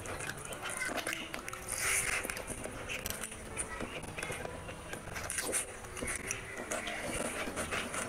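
Close-miked chewing, lip smacking and wet mouth sounds of a person eating rice and chicken curry by hand, with bites of raw onion.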